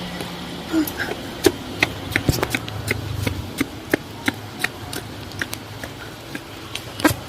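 Raindrops striking a hard surface: scattered sharp ticks, a few a second at irregular spacing, over a faint low hum.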